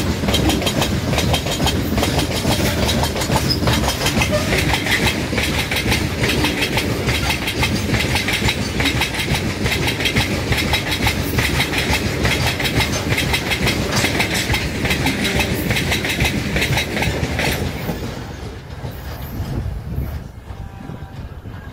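Freight train wagons passing at speed: steel wheels clatter over the rail joints in a fast, steady rhythm with a heavy rumble. About 18 s in the clatter drops away and fades as the brake van at the tail passes and recedes.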